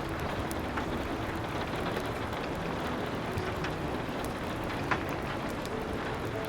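Steady rain hiss with scattered small crackles and pops of a wood fire, one sharper crack about five seconds in.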